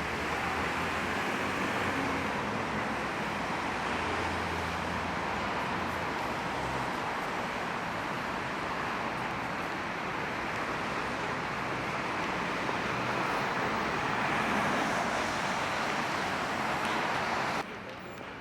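Steady city street traffic noise: a continuous hiss with a low engine hum underneath, cutting off abruptly near the end.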